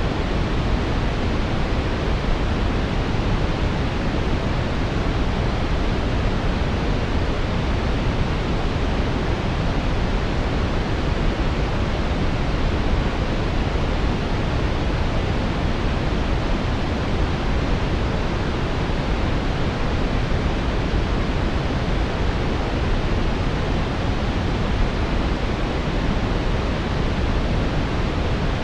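Continuous synthetic brown noise: a steady, deep hiss with most of its energy in the low end and little above the treble, unchanging throughout.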